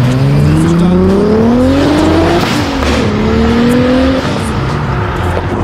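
Toyota Supra MK4's inline-six engine accelerating hard. The revs climb, fall sharply at an upshift about two and a half seconds in, then climb again in the next gear before easing off near four seconds.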